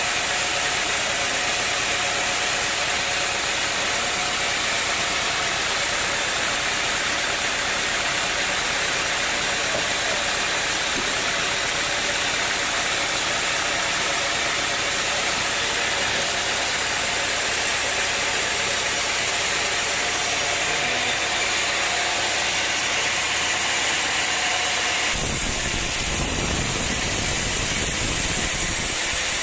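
A machine running steadily, with a dense, even noise and a couple of faint steady tones. About 25 seconds in the sound changes abruptly to a deeper rumble.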